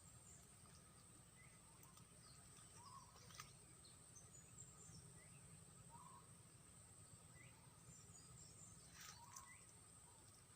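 Faint wild-forest ambience: short, soft bird chirps every second or two over a steady high insect drone, with a couple of faint clicks.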